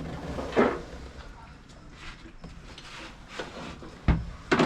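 Clunks and knocks of engine parts and tools being handled on a workbench, with a heavy low thump about four seconds in as something weighty is set down.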